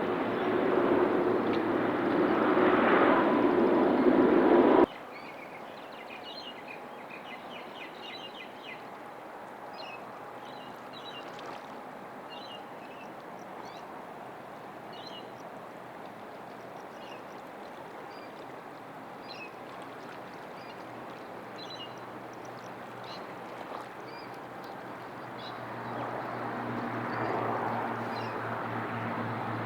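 Jet airliner engine noise, loud with a steady whine, that cuts off abruptly about five seconds in; then quieter ambience with small birds chirping, until a jet's noise swells up again near the end.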